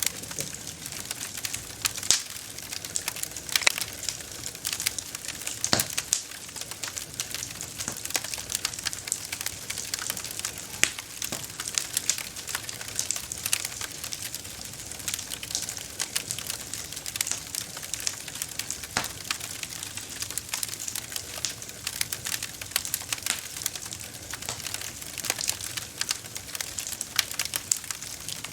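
Campfire burning, with dense, irregular crackling and occasional louder snaps and pops of burning wood.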